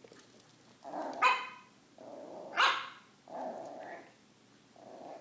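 Young border collie/blue heeler cross puppy barking and growling in fright, with a few separate barks, the loudest about a second in and another near the middle, and rougher growling sounds between them.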